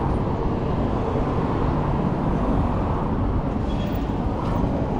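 Steady wind rush and road noise on a riding e-bike's camera microphone, with street traffic mixed in.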